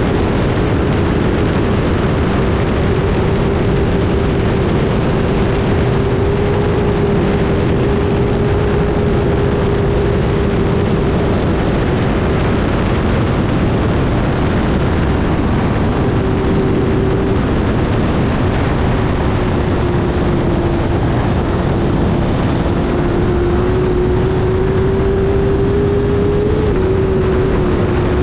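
Kawasaki ZXR750 race bike's inline-four engine running flat out at near-constant high revs, its note dipping slightly and then climbing back in the second half, under a dense rush of wind noise.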